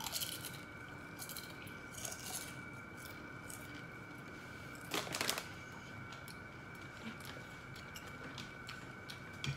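Potato chips being chewed: faint, scattered crunching and crackling, with one brief louder burst of noise about five seconds in.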